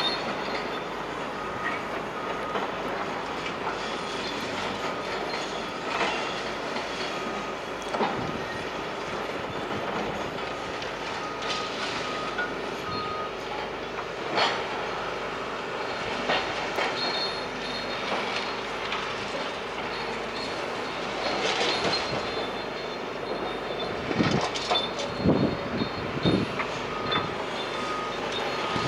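Heavy demolition machinery working, a steady mechanical rumble with scattered knocks and crunches of breaking material, heaviest in a run of hits near the end.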